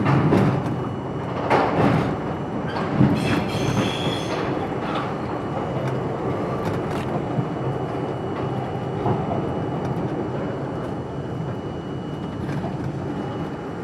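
R42 subway train running at speed: a steady rumble of wheels on rail, with a few sharp clacks over rail joints in the first three seconds and a brief high wheel squeal around four seconds in.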